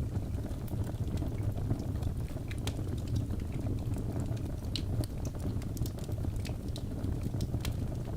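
Wood fire burning in a fireplace: a steady low rumble with many sharp, irregular crackles and pops from the logs.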